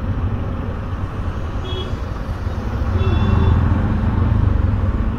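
Motorcycle riding in road traffic: a steady low rumble of engine, road and wind on the rider's microphone. Two short high-pitched beeps come through, a little under two seconds in and again about three seconds in.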